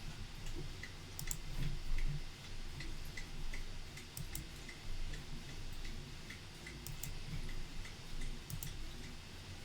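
FLSUN V400 delta 3D printer running a print: an uneven low motor hum with many small irregular ticks and clicks.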